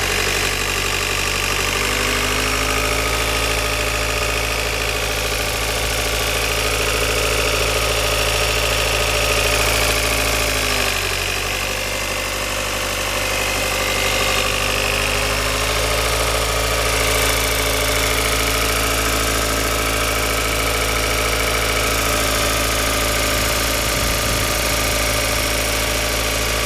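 Car engine idling with a sound the owner finds strange. The engine speed drifts: it rises a little about two seconds in, dips around ten seconds, and climbs again a few seconds later.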